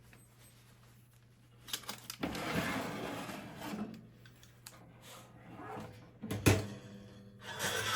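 Kitchen handling sounds in a small room: a click, a long rough scraping or rustling, then a sharp knock, like a drawer or cabinet door being worked.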